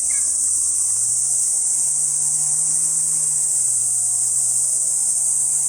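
Steady high-pitched insect drone, like cicadas or crickets, with a fainter low hum underneath that steps up in pitch about a second in and drops back a little after the middle.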